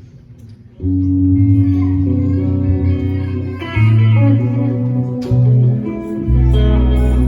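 Live band music starts about a second in, guitar-led with strong held bass notes: the intro to a gospel song.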